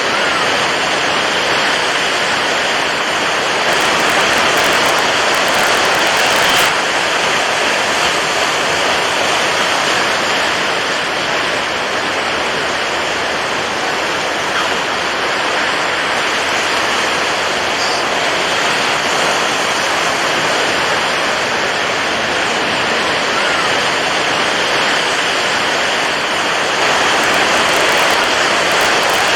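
Water waves rushing steadily, a dense even wash of sound that swells slightly a few seconds in and again near the end.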